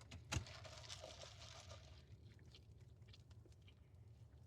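Quiet eating: faint chewing, with a short click about a third of a second in and a few soft ticks later.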